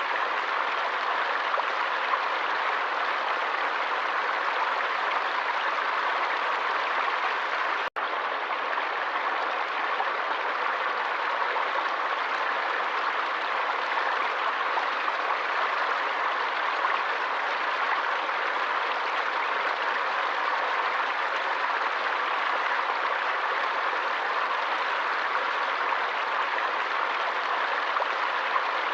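Forest stream water flowing in an even, steady rush, with a split-second dropout about eight seconds in.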